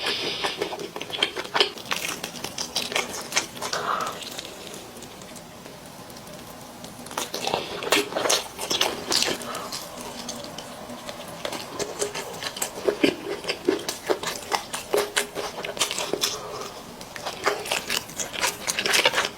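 Close-miked eating sounds: a person chewing and biting into braised chicken, with many short wet clicks and crackles, quieter for a few seconds partway through.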